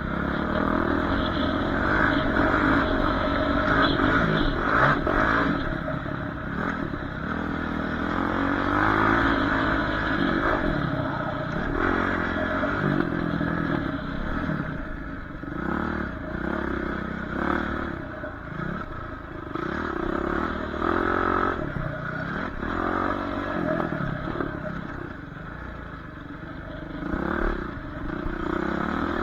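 Dirt bike engine being ridden, its pitch rising and falling again and again as the throttle opens and closes, over a steady low rumble.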